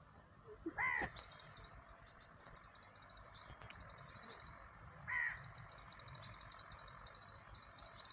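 A bird calling twice, about a second in and again about five seconds in, over repeated short high chirps and a steady high tone.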